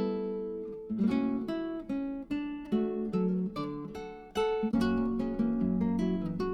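Background music: acoustic guitar, notes and chords plucked and strummed at a relaxed, steady pace.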